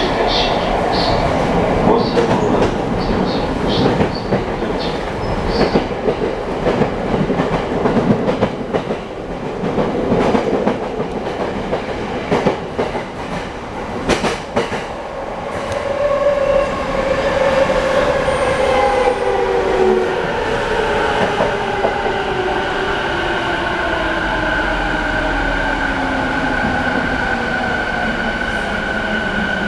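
Tokyo Waterfront Area Rapid Transit 70-000 series train's IGBT VVVF inverter and traction motors, heard from inside the car. Wheels and track rattle and click over rail joints at first; from about halfway the motor whine falls steadily in pitch, with a steady higher inverter tone beside it, as the train slows into its stop.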